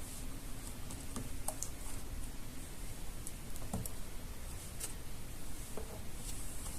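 Scattered light clicks and taps from paper craft pieces being handled, set against a steady hiss.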